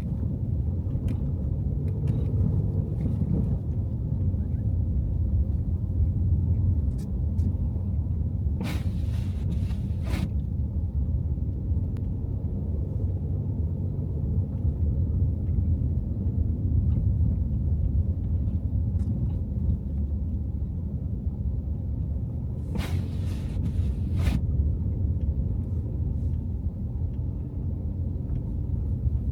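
Car driving through snowy city streets: a steady low rumble of engine and tyre noise. Two short pairs of brief swishes come about nine and twenty-three seconds in.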